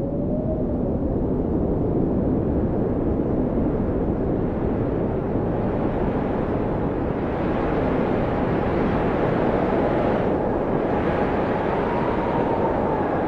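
Blizzard wind blowing hard, a deep steady rush with a faint howling whistle that rises and falls, once near the start and again near the end. The gusts strengthen and brighten about halfway through.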